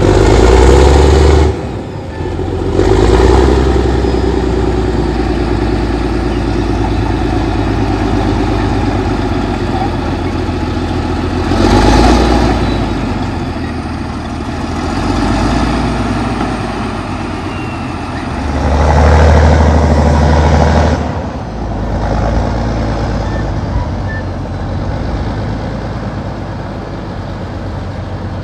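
Allis-Chalmers HD-21 crawler dozer's diesel engine running while working, a steady heavy drone that swells louder four times: right at the start, about three seconds in, around twelve seconds, and for about two seconds near twenty seconds.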